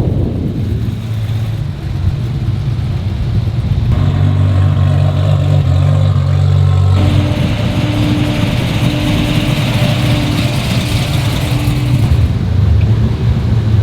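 Car engine running close by: a steady low note from about four seconds in changes sharply at about seven seconds to a brighter, higher sound that eases off near twelve seconds.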